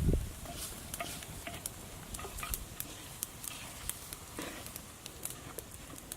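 Masala frying in oil in a pan, with irregular crackling pops several times a second and a low knock right at the start.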